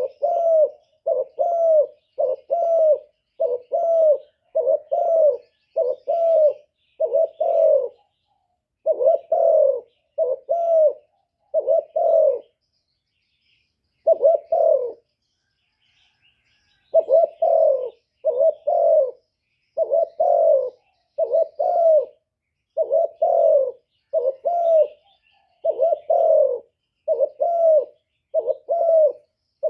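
Decoy spotted dove (cu gáy) cooing: a long run of low coos, often in quick pairs, about one to two a second, breaking off twice briefly near the middle. Faint chirps of small birds behind.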